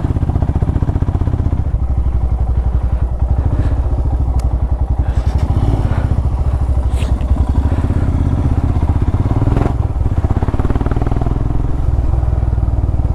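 Motorcycle engine running steadily while riding, a dense even low pulsing. A few brief clicks are heard about four, seven and ten seconds in.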